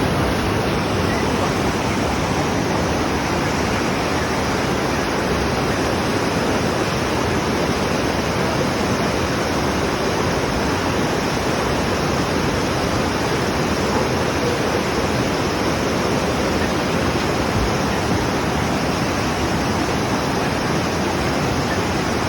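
Steady, loud rush of water pouring out during a manual sand flush, as water carries accumulated sand out through an opened discharge gate at a water intake.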